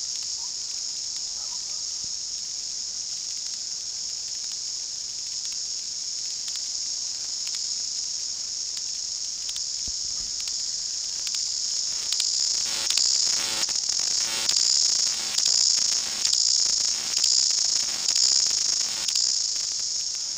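New Zealand chorus cicadas (Amphipsalta zelandica) singing as a loud, steady, high-pitched chorus. About twelve seconds in, a nearby cicada comes in louder, in repeated pulsing phrases about once a second, each marked by sharp clicks, and it stops shortly before the end.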